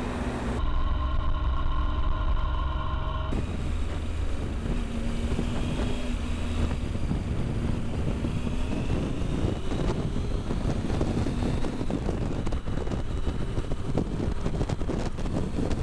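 Triumph Sprint ST 1050's three-cylinder engine running under way, with wind noise on the microphone. A faint rising tone comes in around the middle as the bike gathers speed.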